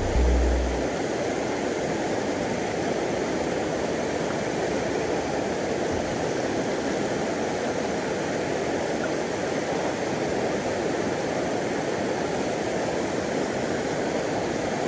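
Steady rush of river water flowing over a shallow rapid.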